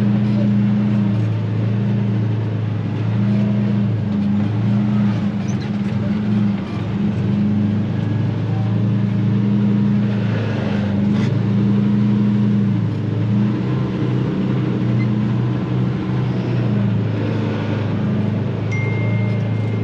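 Truck engine running steadily with a deep, even hum, heard from inside the cab.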